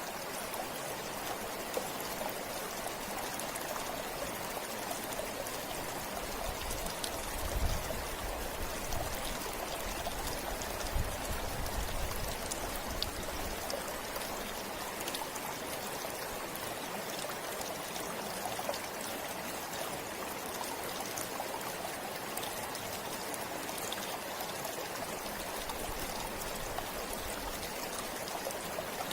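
A river flowing steadily, a continuous rush of water with faint scattered splashes. A couple of brief low rumbles come about eight and eleven seconds in.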